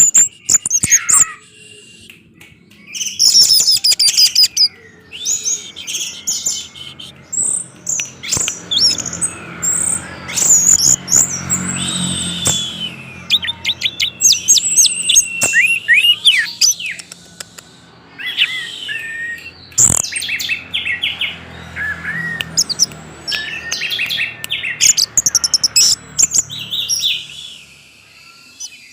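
Orange-headed thrush singing a long, varied song of quick high chirps, warbles and trills in close-packed phrases with only short breaks. A faint low hum sits underneath through the middle.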